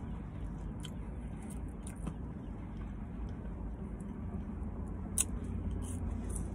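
A person chewing and biting French fries, with soft wet mouth sounds and a few short clicks, the sharpest a little after five seconds in, over a steady low hum of the car's interior.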